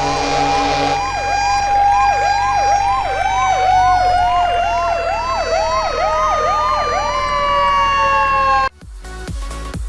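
Emergency-vehicle siren: quick rising sweeps repeating about twice a second over a steady tone, the whole sliding slowly lower in pitch. It cuts off suddenly near the end, and electronic music with a steady beat takes over.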